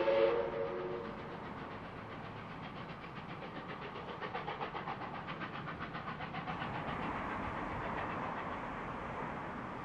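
An approaching locomotive-hauled train: a multi-note train horn chord dies away about a second in, then the train's running noise pulses in a fast, even rhythm. A suburban electric train's running noise builds near the end.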